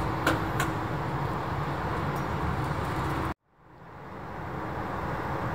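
Steady outdoor rumble and hiss with a low hum and two clicks near the start. It cuts out abruptly a little over three seconds in, then fades back up to the same steady noise.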